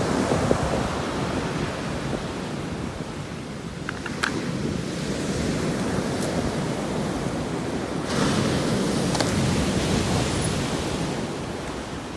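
Sea waves breaking and washing on the shore in slow swells, with a fresh wave surging in about eight seconds in and easing off near the end.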